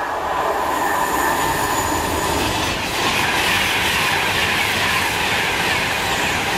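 Class 390 Pendolino electric train passing at high speed: a loud, steady rush of wheel, rail and air noise that rises sharply at the start, with a high steady whine over the first couple of seconds.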